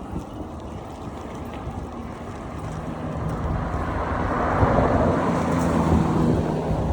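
Wind rushing over the microphone of a moving bicycle. About halfway through, a motor's low hum comes in and the rush swells, loudest around five seconds in, as if an engine is passing close by.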